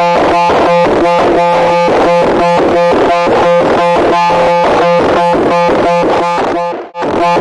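Loud, harsh electronic buzzing tone, pulsing rapidly about four times a second at a steady pitch, cutting out briefly near the end.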